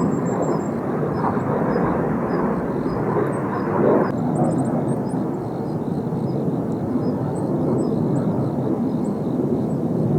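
Steady rushing jet noise from the Blue Impulse team's Kawasaki T-4 jets in flight; its brighter upper part drops away suddenly about four seconds in, leaving a duller rumble.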